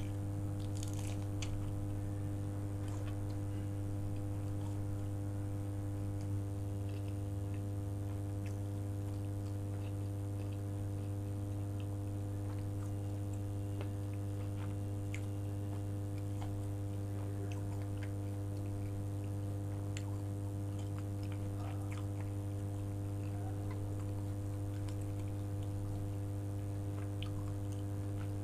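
Close-up eating sounds: a bite into a soft roll about a second in, then slow chewing with faint wet mouth clicks. A steady low hum runs underneath and is the loudest thing heard.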